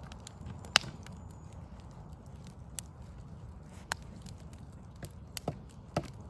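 Backyard wood fire crackling, with scattered sharp pops, the loudest about a second in, over a steady low rumble.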